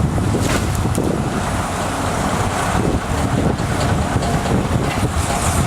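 Wind buffeting the microphone outdoors: a steady, loud, low rumble.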